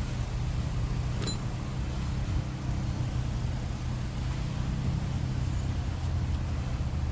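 A steady low mechanical hum, like an engine running nearby, with a single sharp click about a second in.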